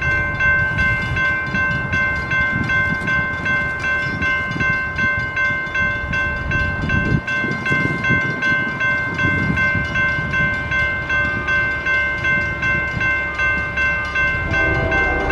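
Railroad crossing bell ringing at about three strokes a second over the low rumble of a passing train. Near the end a new set of lower tones comes in.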